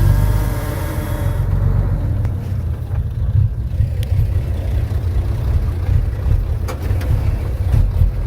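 Heavy diesel engine of a Komatsu D31P crawler bulldozer running under load, a loud steady low rumble, with a few faint sharp clicks in the second half.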